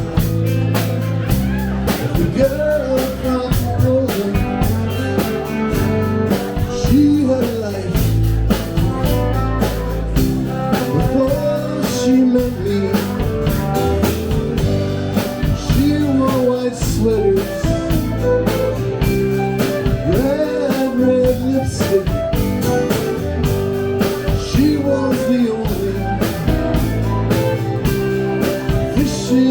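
A live rock-and-roll band playing, with electric guitar and a drum kit keeping a steady beat.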